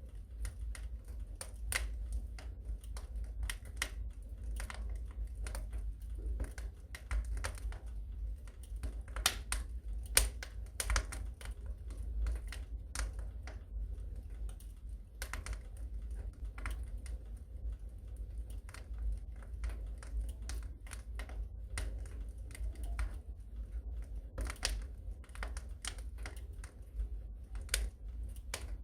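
Wood fire crackling in a fireplace: irregular snaps and pops over a steady low rumble.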